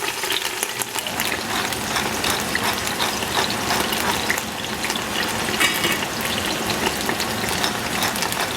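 Food sizzling in hot oil as it is stir-fried in a wok, with many small clicks and scrapes from the spatula stirring it. The sizzle grows fuller about a second in.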